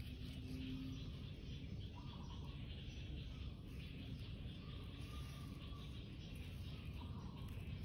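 Outdoor ambience: a few faint bird chirps over a steady low rumble.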